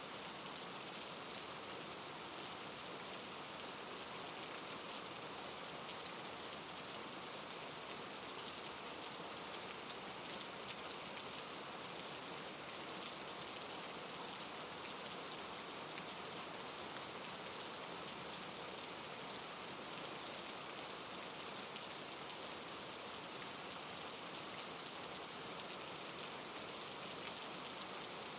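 Steady soft rainfall, a continuous even hiss with many small drop ticks.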